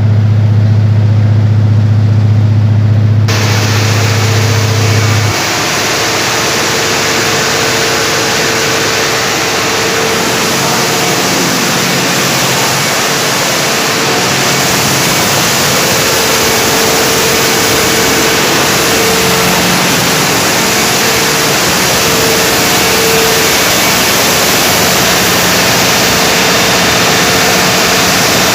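Generator running under a load test, loud and steady. A strong low hum at first; about three seconds in a loud rushing noise comes in, and the low hum fades out a couple of seconds later.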